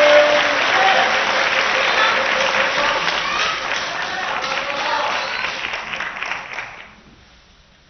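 Arena crowd applauding and cheering, with scattered voices over the clapping; it dies away about seven seconds in.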